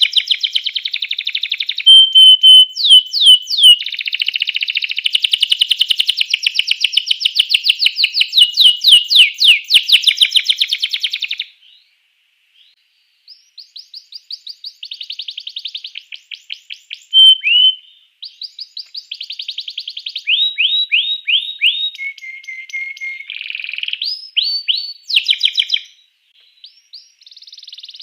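Domestic canary singing: long runs of fast, rolling trills and rapid chirp series, broken by a short pause about twelve seconds in, then more trills and clear whistled notes.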